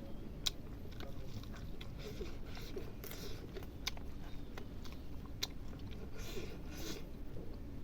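A person eating: wet chewing and biting of food, with scattered sharp mouth clicks and two short crunchy stretches, around three seconds in and again near the end.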